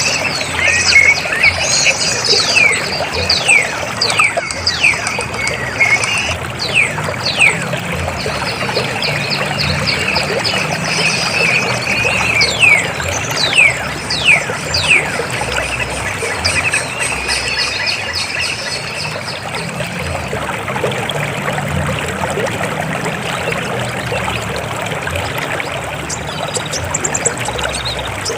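River water flowing and splashing steadily. Over it come many short, high whistled notes, each falling quickly in pitch, clustered in the first half and thinning out after about fifteen seconds.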